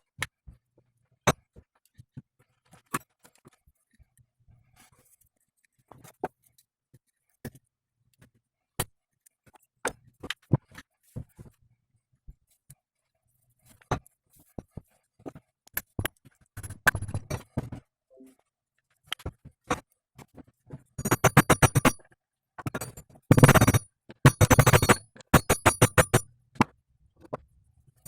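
Sharp, scattered clicks and knocks of hand-tool work on a car's front driveshaft, with short runs of rapid clicking in the last third.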